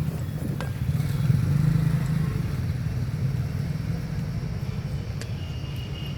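Single-cylinder motorcycle engine running at idle with a fast, even beat, picking up slightly about a second in and then settling back.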